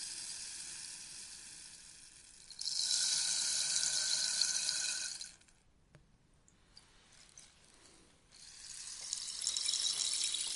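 Rainstick being tipped, its beads trickling down through the tube in a rain-like rush. A fresh pour starts about two and a half seconds in and stops abruptly before the halfway point. After a lull with a few scattered ticks, another pour builds up near the end.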